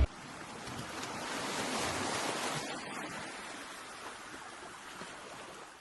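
A toneless rushing hiss that swells over the first two seconds, then slowly fades out.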